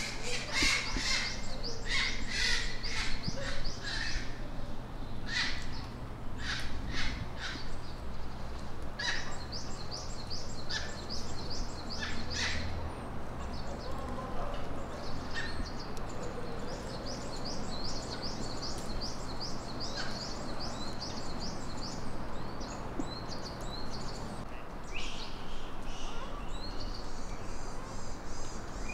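Wild birds calling in the trees: a burst of sharp, high calls in the first few seconds. Then long runs of short, quickly repeated high notes continue through most of the rest.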